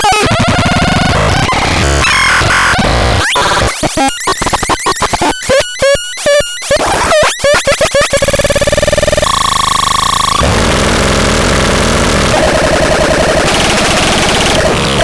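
Loud, harsh electronic noise, glitchy and dense. It breaks into rapid stuttering, chopped bursts about four to eight seconds in, shifts to a few seconds of steady held tones, then returns to dense noise.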